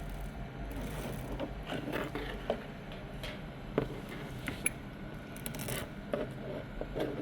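A scattering of small clicks and light knocks, as of hard objects being handled, over a steady low hum.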